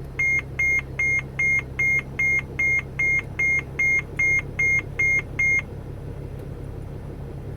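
A 2008 Mercedes Sprinter 3500's engine idling just after starting, with a steady low hum, while an in-cab warning chime beeps about fourteen times, a little over two beeps a second, and then stops about five and a half seconds in.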